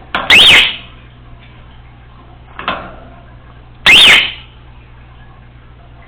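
Congo African grey parrot giving two loud, shrill whistles about three and a half seconds apart, each sliding up and then back down in pitch, with a softer call between them.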